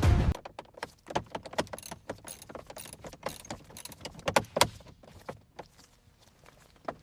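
A run of irregular light clicks and knocks, with a few sharper ones about a second in and again around four and a half seconds in.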